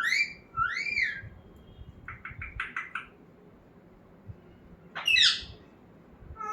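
Parrot calling: two arching whistled squawks that rise and fall at the start, a quick run of short chirps about two seconds in, and a sharp falling squawk about five seconds in.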